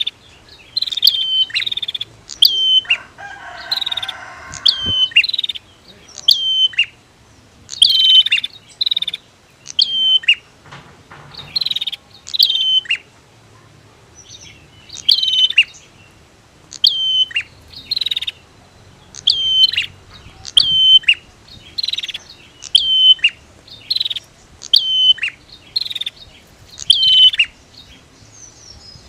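Prinia (prenjak) calling: a long series of sharp, downslurred chirps, one to two a second, with a short lower buzzy rattle about four seconds in and a brief lull around the middle.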